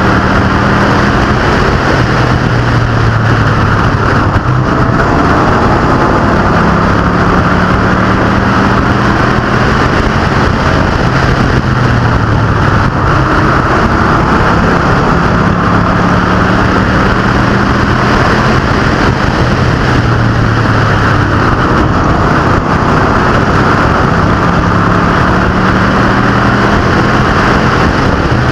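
A field of street stock race cars and pro trucks racing on a short oval: many engines at high revs, loud and continuous, the engine pitch rising and falling every few seconds as the cars accelerate off the corners and pass.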